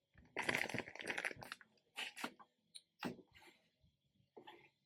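A crinkling rustle about a second long near the start, then a few light clicks and knocks, as small items are handled and put down.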